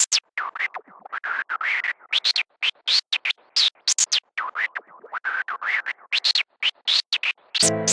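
Electronic noise shaped into short swooshing bursts, several a second, each sweeping up and down in pitch like record scratching. Just before the end a chord of steady synthesizer tones comes in.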